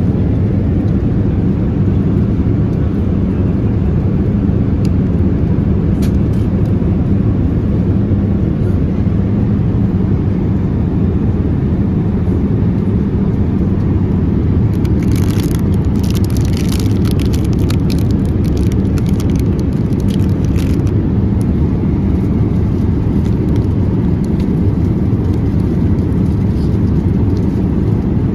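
Steady low rumble inside the cabin of a Boeing 787-8 airliner, from engine and airflow noise. A run of light clicks and rattles comes about halfway through.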